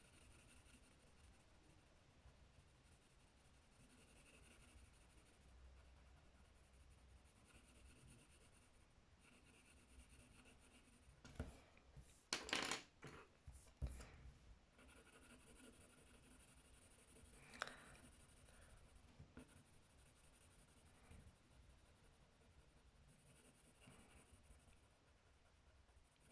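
Faint scratching of a colouring tool on paper, broken by a few short, louder clatters about halfway through and a single sharp click a little later.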